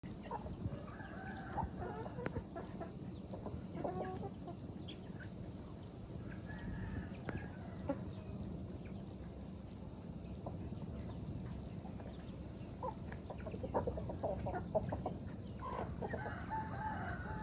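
A flock of farm chickens clucking, with short calls scattered throughout and denser toward the end, over a steady low background rumble.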